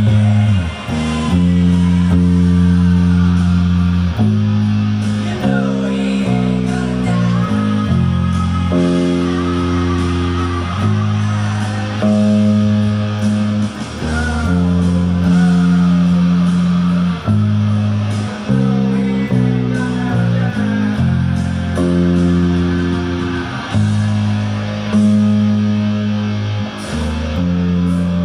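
Rock guitar music: low, heavy chords held for a second or two each, changing in a steady repeating pattern with bass underneath.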